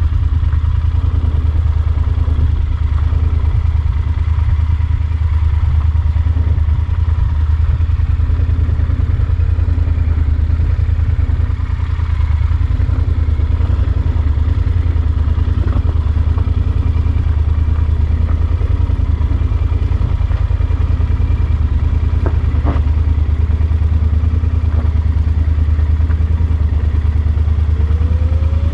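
Yamaha Super Ténéré XT1200's parallel-twin engine running steadily with a low, even pulse. There is one short knock about two-thirds through, and a rising tone begins near the end.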